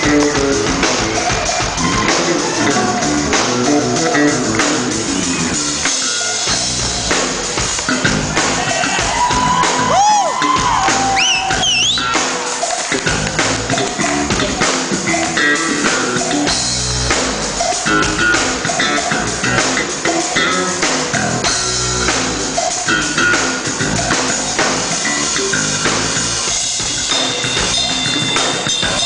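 Live rock band playing loudly: an electric bass solo over a drum kit. A few high, gliding tones rise and fall about ten seconds in.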